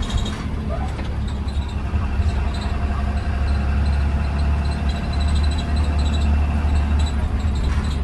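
Blue Bird Vision school bus engine running with a steady low rumble and road noise, heard from inside the bus while it drives.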